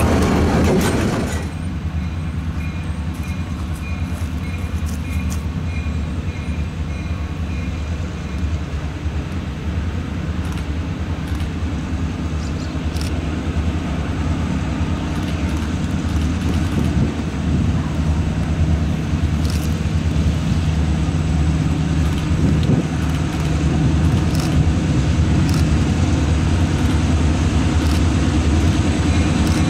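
Freight cars rolling past for about the first second and a half, then a diesel freight train's low, steady rumble in the distance that grows slowly louder as it approaches.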